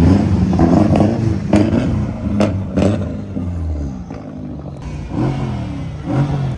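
A car engine revving hard and accelerating, with three sharp exhaust cracks in the middle. It eases off around four seconds in, then gives two short rising revs near the end.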